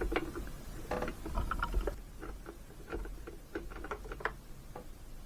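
Spark plug tool working the old spark plug out of an Echo PB2520 backpack blower's engine: a run of short, irregular clicks and taps of metal on metal.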